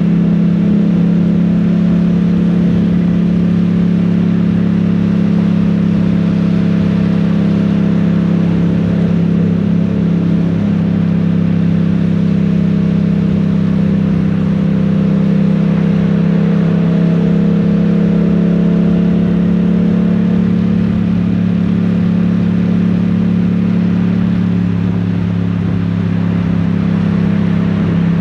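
Yamaha Tracer 700's 689 cc parallel-twin engine running at a steady cruise, its pitch holding nearly constant. A steady rush of noise runs beneath it.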